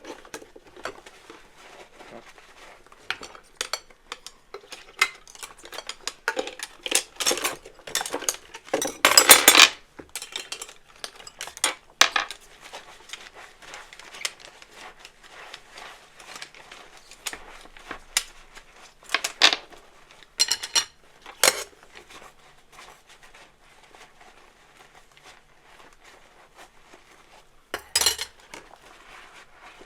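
Dishes and cutlery being washed by hand, clinking and knocking against each other in scattered, irregular clinks. A longer, louder clatter comes about nine seconds in, with quieter gaps between the clinks.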